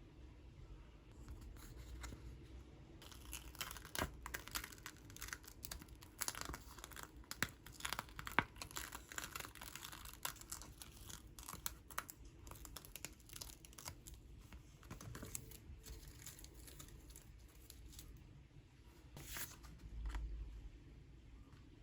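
Crinkly sheet material being handled and torn: a dense run of small crackles and rustles that starts about three seconds in and thins out near eighteen seconds, with a few louder crackles near the end.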